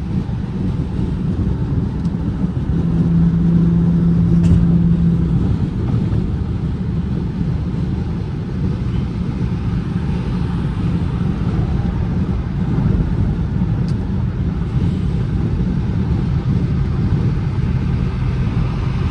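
Infiniti G35's V6 engine running while the car is driven, a steady low rumble. About three seconds in it holds a louder, steady note for a couple of seconds, then settles back.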